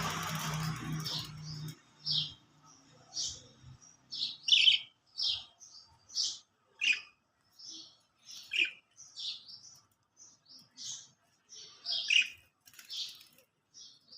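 Pet Australian parrots (budgerigars) giving short, high chirps one after another, about one or two a second. A low hum with hiss sounds under them for the first two seconds, then stops.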